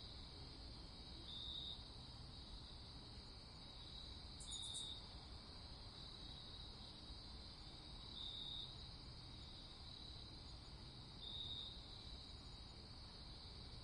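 Faint night-time crickets chirring steadily, with a louder half-second trill roughly every three seconds, over a low rumble.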